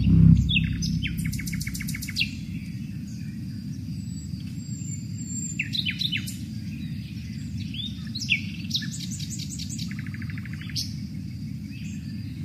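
Birds calling, with short downward-sliding chirps and rapid trills in three spells, over a steady low rumble.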